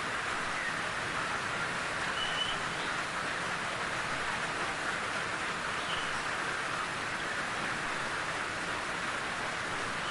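Steady rain falling in a forest, an even hiss with no let-up, with a couple of brief faint high chirps about two and six seconds in.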